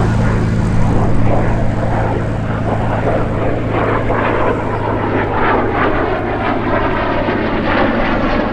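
Aircraft engine running: a steady low hum under a loud rushing engine noise.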